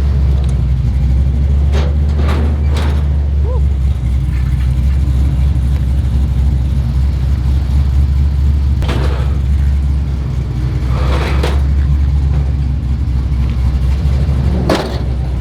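Vehicle engine idling with a steady low rumble, broken by several short knocks or clatters, three close together about two seconds in and more later on.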